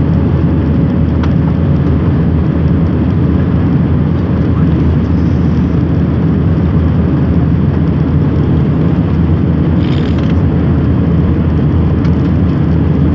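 Steady, loud cabin noise of an airliner: engine and airflow heard from inside the passenger cabin, unchanging throughout.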